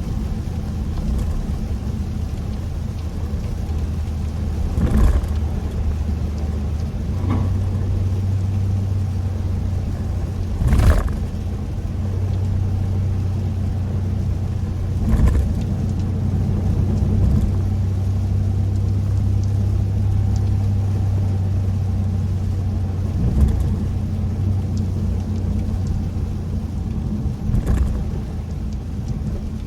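Kia K5 (DL3) driving on a rainy day: a steady low rumble of engine and tyres on the road, with short louder noises a handful of times.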